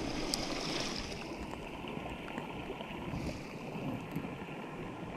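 Steady rush of flowing creek water mixed with wind noise, heard through a soaked, waterlogged camera microphone.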